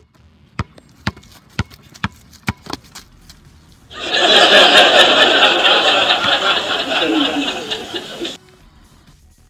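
Rubber basketball dribbled on asphalt, about two bounces a second for roughly four seconds. This is followed by a loud burst of noise lasting about four seconds that cuts off suddenly.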